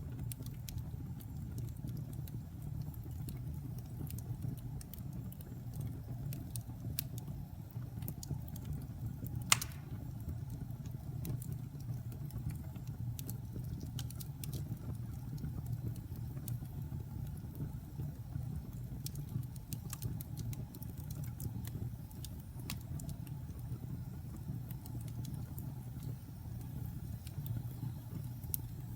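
Fire burning in a fireplace: a steady low roar with scattered crackles and one louder pop about a third of the way in.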